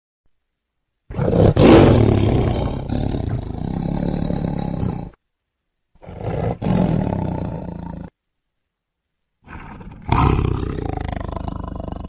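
Tiger growling in three bouts with dead silence between them. The first lasts about four seconds, starting about a second in; the second lasts about two seconds. The third starts near the end and runs on.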